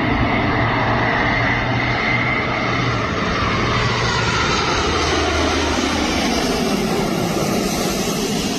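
Light propeller airplane's piston engine running steadily at power as it goes by, its pitch dropping about halfway through.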